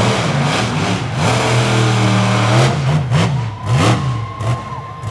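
Monster truck engine revving hard, its pitch swinging up and down in quick blips and held high for about a second and a half near the middle. A thin steady tone runs in the second half.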